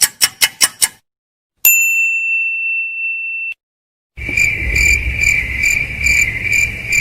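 A string of sound-effect clips: the end of a rapid run of ticks, then a single bell ding that rings for about two seconds and cuts off abruptly. Then comes cricket chirping, the stock 'awkward silence' effect, pulsing a few times a second.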